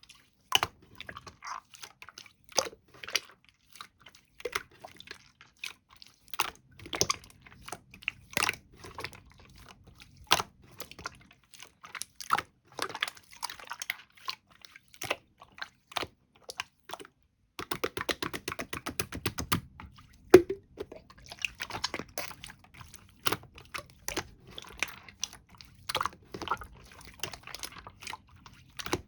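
Irregular crunchy chewing and biting clicks, with a fast run of clicks about two thirds of the way through.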